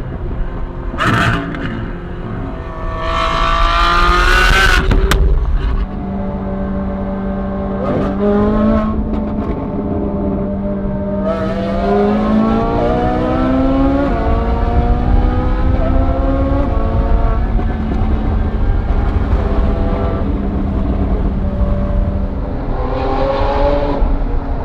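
Lamborghini Aventador's V12 through a Gintani aftermarket exhaust, driven hard: the engine note climbs several times and drops sharply at each gear change, with a steadier stretch in between and a low rush of road and wind noise underneath.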